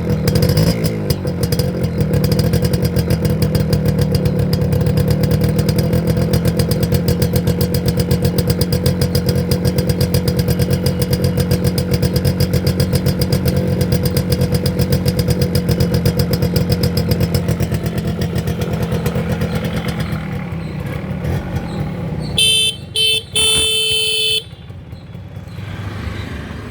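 1992 TVS Supra's engine idling steadily with an even, rapid beat, then slowing and dying away about twenty seconds in. Near the end the electric horn sounds, a few short beeps and then one longer toot.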